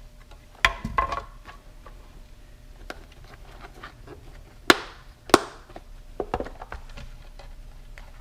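Small hand tools and wires being handled on a workbench: a scatter of sharp clicks and knocks, the two loudest close together about five seconds in.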